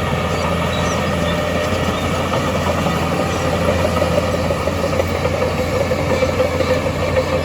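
Heavy earthmoving machinery engine running steadily, with a mid-pitched engine note that grows a little stronger in the second half.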